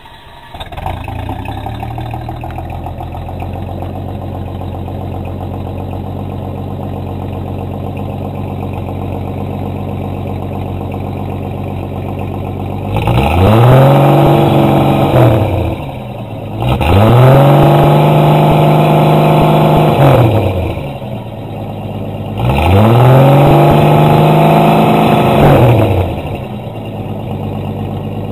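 1966 Ford Falcon's 200 cubic-inch inline six, breathing through the stock manifold and a Cherry Bomb Turbo II muffler, fires up at the very start and idles steadily. Then it is revved three times, each rev climbing quickly, held for a few seconds and dropping back to idle.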